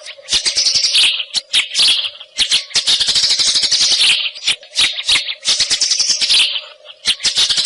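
White-rumped shama (murai hutan) singing: fast runs of dry, rattling chatter notes mixed with harsh rising sweeps, in phrases of a second or two with short breaks between them. A faint steady hum lies underneath.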